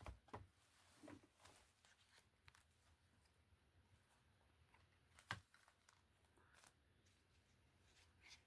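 Near silence with faint rustles and taps of paper and card being handled, and one sharper tap about five seconds in.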